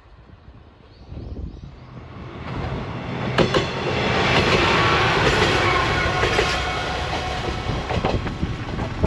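Heisei Chikuho Railway diesel railcar passing close by: the rumble builds from about two seconds in to a peak mid-way, with sharp wheel clicks over rail joints about three seconds in and again near the end.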